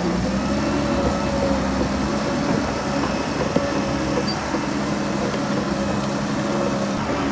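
Heavy diesel engine of earthmoving machinery running steadily, with a constant low hum and rumble.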